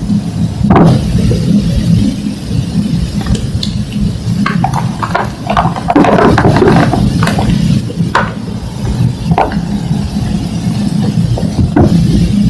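Thick slabs of homemade green-dyed gym chalk being crushed and crumbled by hand: scattered sharp cracks and crunching crackles, thickest about six seconds in, over a steady low rumble.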